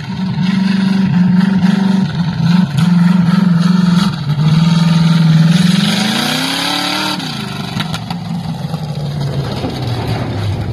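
355 small-block Chevy V8 on a two-barrel carburettor, held at raised revs with a couple of brief dips, revved higher once about six seconds in, then dropping back to a lower, steadier speed.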